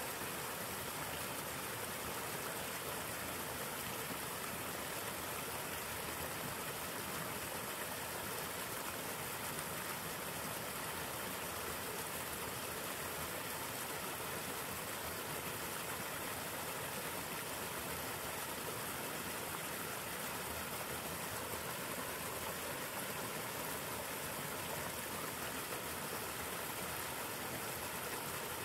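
River water flowing over rocks: a steady, unbroken rushing.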